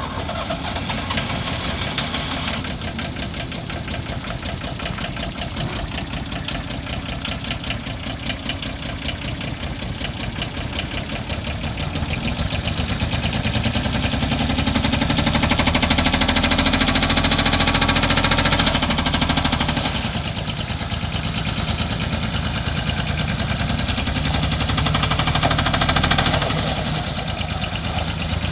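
Hinomoto N179 compact tractor's diesel engine running just after starting. It speeds up and runs louder for several seconds about halfway through, drops back to a lower speed, and rises briefly again near the end.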